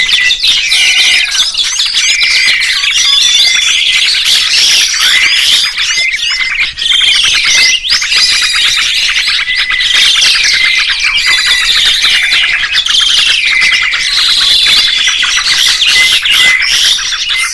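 Songbirds chirping and twittering nonstop: a dense chorus of quick high calls, trills and short whistled phrases.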